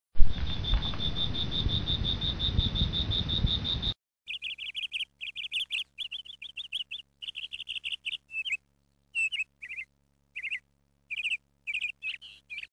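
A loud rushing noise with a high, evenly pulsing tone that cuts off suddenly about four seconds in, followed by small birds chirping in short, high bursts with gaps between them.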